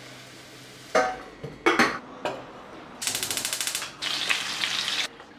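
A few sharp knocks and clatters of kitchen utensils, then chopped garlic and green chillies frying in oil in a stainless steel pan: a rapid crackle from about three seconds in, turning into a steady sizzle that stops shortly before the end.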